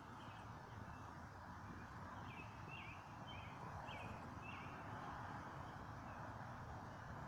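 Faint steady outdoor wind noise, with a small bird giving a quick run of short high chirps in the middle.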